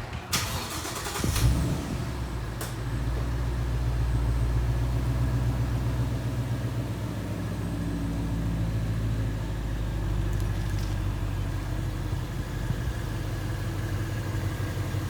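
An engine cranks briefly and catches about a second and a half in, then runs steadily.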